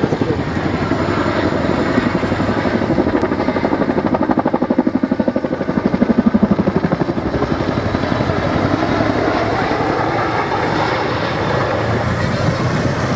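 RAF Chinook tandem-rotor helicopter flying by, its rotors making a loud, fast chop. The chop swells to its strongest a little before the middle, then settles back to a steady rotor and turbine noise.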